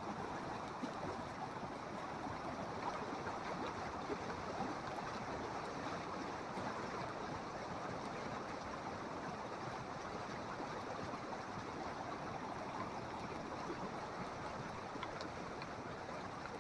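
Flood-swollen creek rushing steadily: the even roar of fast, high water after torrential rain.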